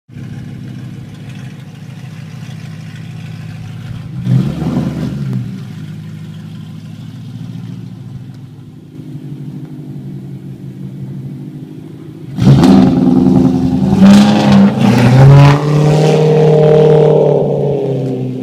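BMW M3 E92's V8 running through a new Supersprint straight-through exhaust: idling, one short blip of the throttle about four seconds in, then a run of hard revs in the last six seconds, the last held before dropping away. Extremely loud.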